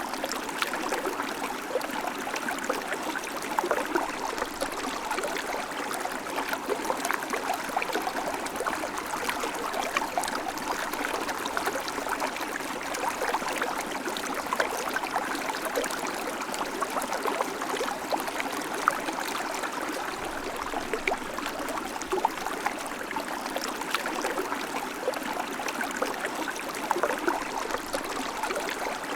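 River flowing: a steady, unbroken rush of moving water, flecked throughout with many small splashes.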